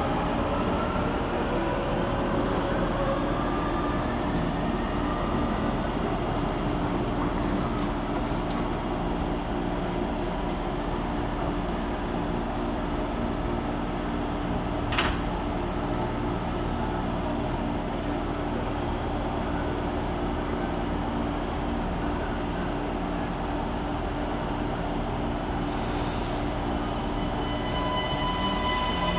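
Taipei Metro C321 train's traction motors whining and rising in pitch as it pulls out, fading within the first few seconds, over a steady station hum. One sharp click about halfway through, and near the end steady tones come in as the next train approaches.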